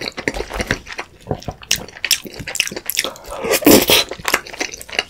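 Close-miked wet chewing and lip-smacking of a mouthful of creamy pasta: many small sticky clicks, with a louder wet mouth sound about three and a half seconds in.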